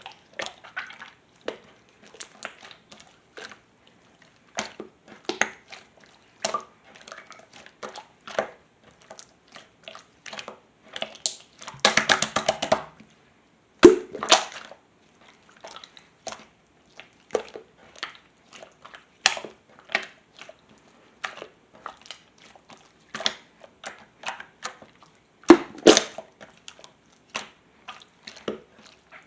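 Purple water-pudding mixed slime being squished and pressed by hand, giving irregular wet clicks and pops, with a quick run of rapid pops about twelve seconds in.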